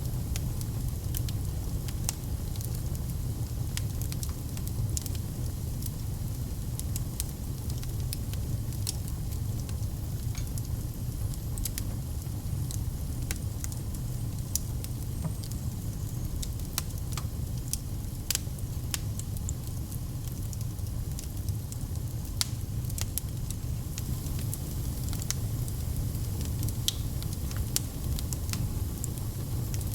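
Wood fire crackling in a fireplace: frequent sharp pops and snaps, irregularly spaced, over a steady low rumble of the burning logs.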